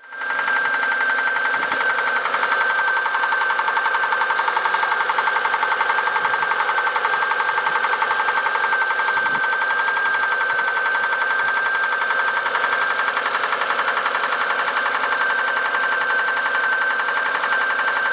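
Lanos car engine running steadily with a rapid, even knock: the unexplained engine knock whose cause the owner sets out to find.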